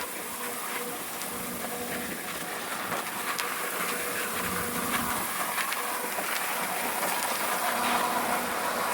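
Standby generator engine running steadily over a constant hiss, growing louder toward the end.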